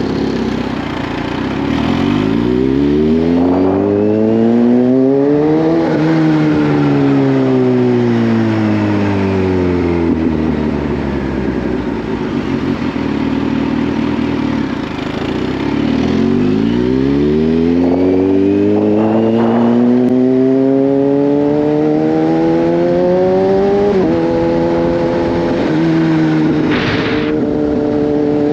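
Kawasaki Z H2's supercharged inline-four engine pulling hard up through the revs, easing off and winding down, then accelerating again with a drop in revs at an upshift about 24 seconds in and steady running afterwards. A short hiss sounds near the end.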